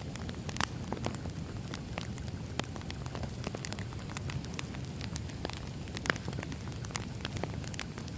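Firewood burning, crackling: a steady low rumble with many scattered sharp pops, one louder pop about six seconds in.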